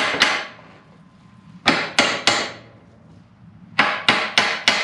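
Hammer blows on a steel part, in quick groups of three and four at about three strikes a second, each with a short metallic ring, knocking the part forward into position for welding.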